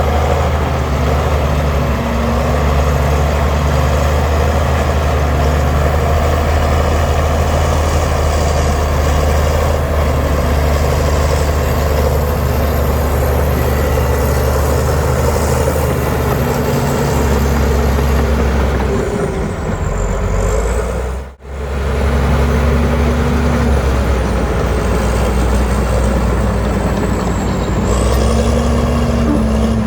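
Heavy diesel earthmoving machinery running steadily under load, with a low engine drone. The sound cuts out for a moment about two-thirds of the way through, then resumes.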